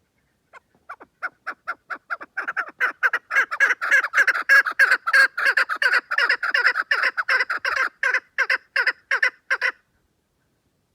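Chukar partridge calling: a long run of short repeated notes. They start spaced out and soft, quicken and grow louder over the first few seconds, keep going steadily, then stop abruptly.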